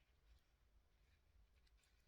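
Near silence: room tone, with a few very faint ticks.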